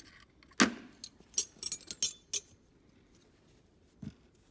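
Armload of metal hand tools clanking: a heavy knock, then a quick run of metallic clinks and jangles, and a dull knock near the end.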